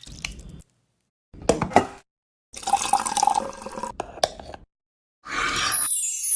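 Water dripping and splashing in short snippets, each cut off abruptly into silence, with a high falling sweep near the end.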